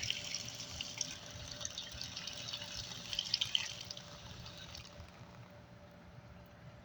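Water running and trickling through the repaired PVC plumbing as the supply is turned back on, a hiss with drips that fades away about five seconds in.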